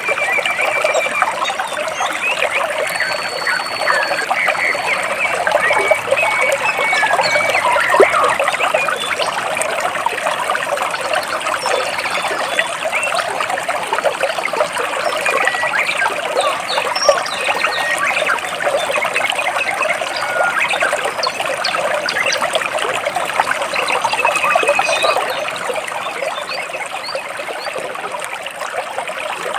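Stream water trickling and splashing over rocks, steady throughout, with a few brief chirps of birds above it, one near the start and a few more scattered through.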